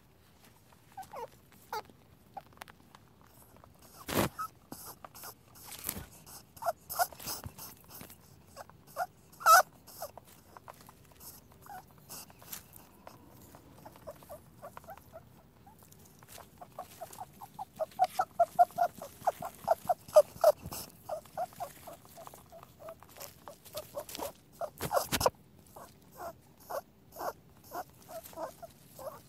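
Rabbit squeaking: short, high squeaks, scattered at first and then in a fast run a little past halfway, with a few sharp clicks in between.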